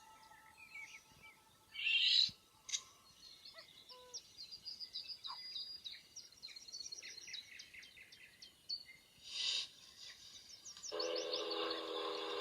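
Birds singing and calling: scattered chirps and a long, rapid trill of repeated high notes, with two short hissy bursts. About eleven seconds in, sustained musical tones come in.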